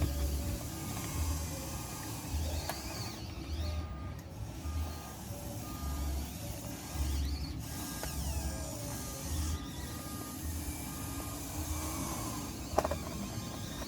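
Radio-controlled Huina construction model working: short repeated reversing-alarm beeps over a faint motor whine, with a couple of sharp clicks near the end.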